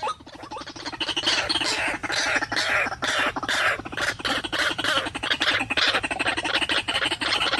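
White-breasted waterhen calling, a fast, unbroken run of rapidly repeated notes.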